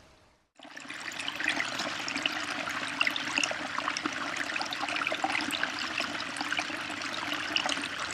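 Running water trickling and splashing steadily, like a small stream or fountain, starting after a short gap about half a second in.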